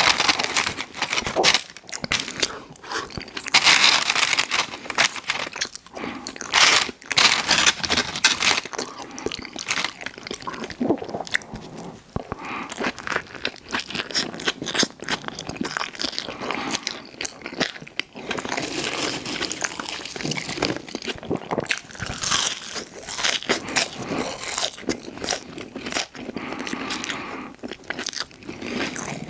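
Close-miked eating: crunchy bites and wet chewing of fast food, with irregular crackling and a few louder bites.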